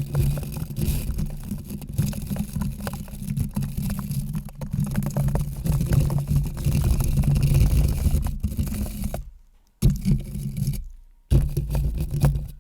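Close-miked scratching and rubbing, a dense crackly texture with a strong low rumble. It stops abruptly twice near the end.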